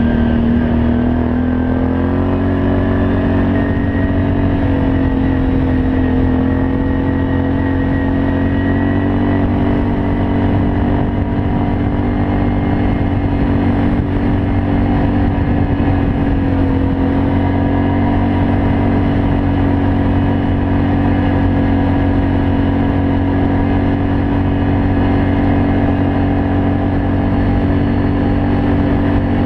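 Can-Am Outlander 500 ATV's V-twin engine through a Yoshimura aftermarket exhaust, running at a fairly steady throttle while riding. Its pitch climbs a little about two seconds in, then holds nearly even with only small rises and dips.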